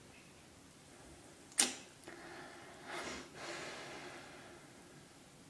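A sharp click about one and a half seconds in, then two soft whooshing rustles about a second later: a budgerigar's wings beating in flight.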